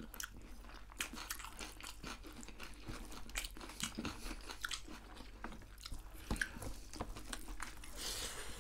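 Close-up chewing and crunching of deep-fried goat meat with rice, eaten by hand: many short crisp crunches and wet mouth clicks.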